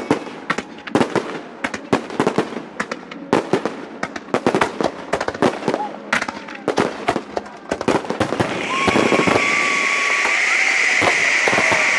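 Fireworks bursting in rapid succession, a fast run of sharp bangs and crackles. About nine seconds in, the bangs give way to a steady hiss from a row of ground fountains spraying sparks.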